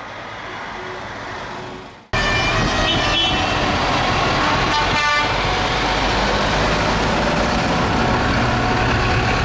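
Truck engines running in a loud steady din, with horns tooting briefly a couple of times. The din starts abruptly about two seconds in, after a quieter stretch that fades away.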